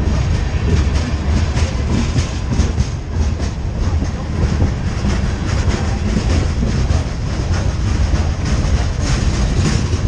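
Freight train of tank cars and boxcars rolling past close by: a steady rumble of steel wheels on rail with repeated clicks from the passing wheels.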